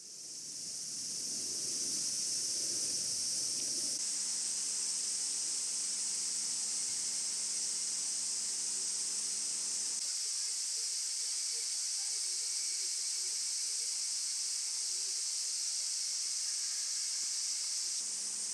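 Steady high-pitched insect chorus, an even unbroken drone.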